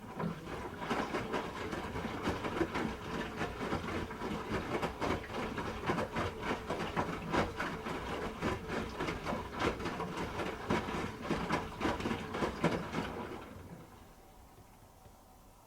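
Hoover H-Wash 300 Plus front-loading washing machine drum turning for about thirteen seconds, with a dense, uneven clatter of laundry tumbling inside it, then the drum stops and the sound dies away.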